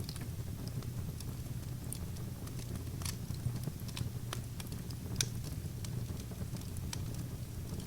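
Wood fire crackling: irregular sharp pops and snaps over a steady low rumble, with louder pops about three and five seconds in.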